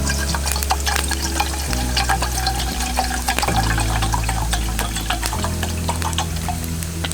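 Food sizzling and crackling on a fire-heated iron griddle plate, with many sharp pops, over background music with slow chord changes.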